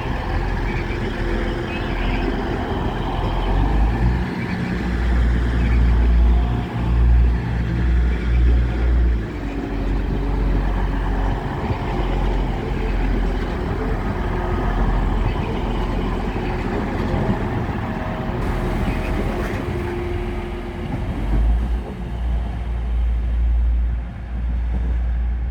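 Train at the platform, running with a steady low rumble and engine hum; the rumble swells for a few seconds about four seconds in and again near the end.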